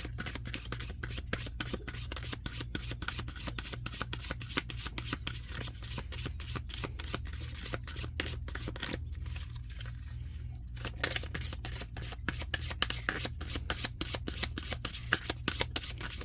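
A deck of oracle cards being shuffled by hand: a long, rapid run of soft flicks and clicks as the cards slide against each other, easing briefly about nine seconds in.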